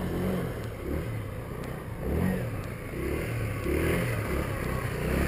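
Derbi 125cc motorcycle engine running cold, revved up and down unevenly, getting louder near the end.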